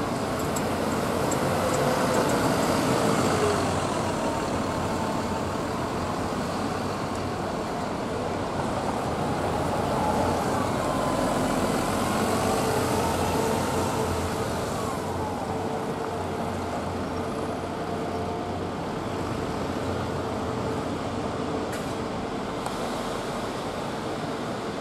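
Steady vehicle or traffic noise: a continuous rumble and hiss, with faint tones that slide up and down.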